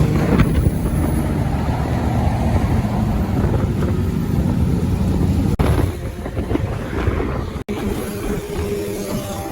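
Motorcycle engine running steadily while riding, mixed with wind and road noise. The sound cuts out abruptly twice for an instant in the second half.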